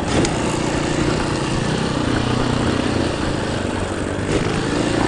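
Dirt bike engine running steadily as the bike is ridden along a trail, under a steady rush of noise.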